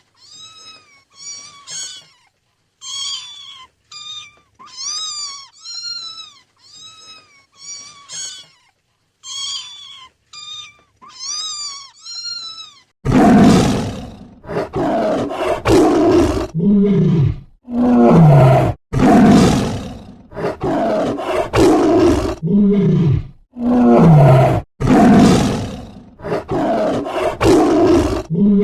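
A kitten mewing over and over in short, high calls for about the first half. Then a big cat's loud roars and growls take over, one after another, with deep falling pitches.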